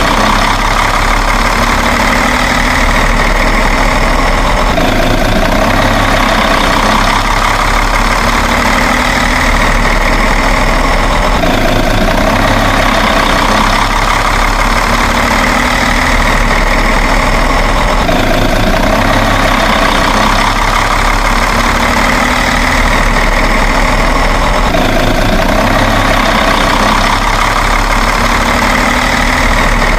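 Steady truck engine idling sound that repeats in a loop, with a brief break about every six to seven seconds.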